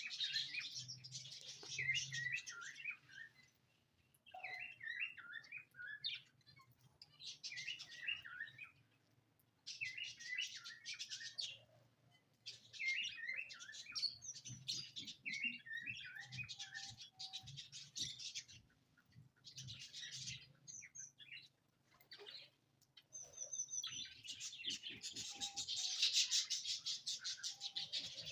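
Small pet birds chirping in quick high twittering phrases of a second or two, with short pauses between and a busier, denser stretch near the end, over a faint steady low hum.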